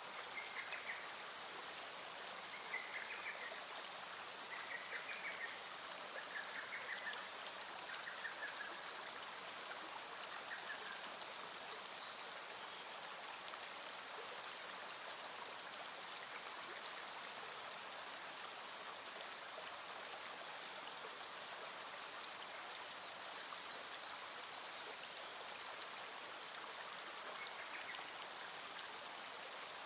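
Small stream flowing steadily over stones. A short, high call repeats about every two seconds during the first ten seconds or so, and comes again twice near the end.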